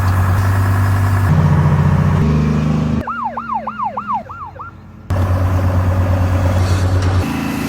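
An emergency-vehicle siren yelping in about five quick rising-and-falling wails, cutting in abruptly about three seconds in, between stretches of a steady low engine-like drone that steps up in pitch twice before the siren.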